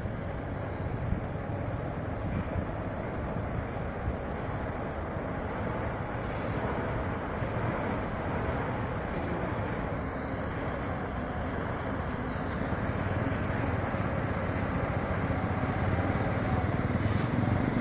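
Truck engine running under load on a slippery hill climb, a steady rumble that slowly grows louder toward the end, mixed with wind buffeting the microphone.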